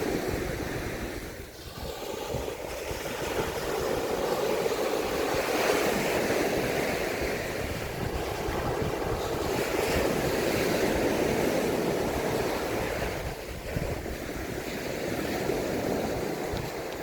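Mediterranean surf washing onto a sandy beach, the rush of the waves swelling and ebbing, with lulls about a second and a half in and again near the end.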